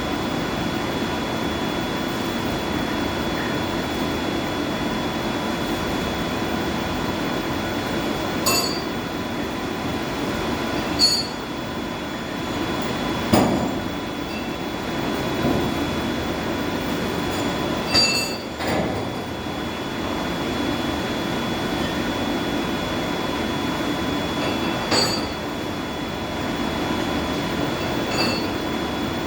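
Steady hum of boiler-house machinery, with about six sharp metallic clinks and knocks spaced a few seconds apart.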